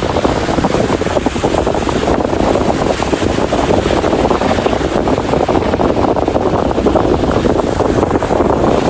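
Strong wind from a waterspout buffeting the microphone: a loud, steady rushing and rumbling noise with no let-up.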